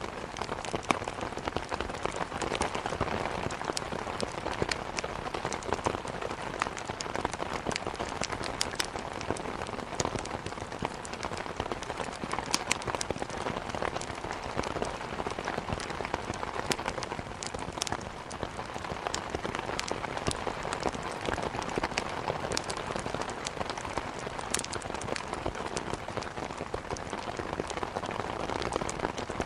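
Steady rain falling, with scattered sharp crackles and pops of burning wood in a fireplace over it.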